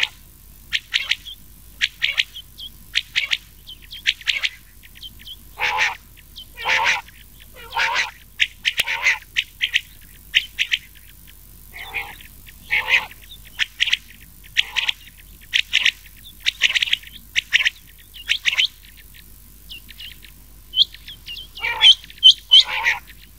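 A recorded mix of rain quail and quail calls: short calls repeated in quick runs, some in pairs, with sharper high notes near the end.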